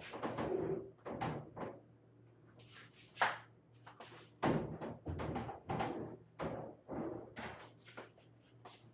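Irregular knocks, clunks and rattles of parts and tools being handled while a washing machine is taken apart, with a faint steady hum underneath. The sharpest knock comes about three seconds in.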